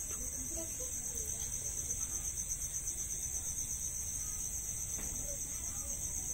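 Steady, high-pitched insect chorus trilling without a break.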